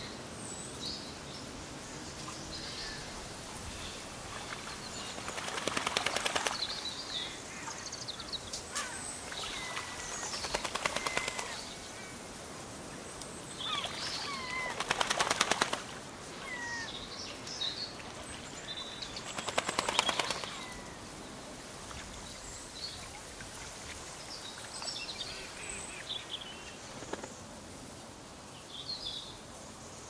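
Wetland bird sounds: scattered short chirps and whistles, and four loud rattles of rapid even pulses, each lasting one to two seconds and coming every four to five seconds.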